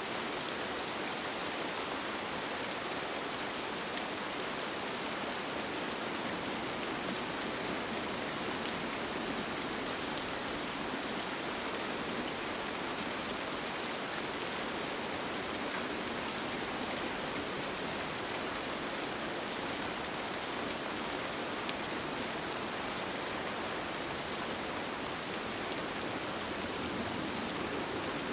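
Steady rain falling on a tent, an even hiss of many fine drops with no let-up.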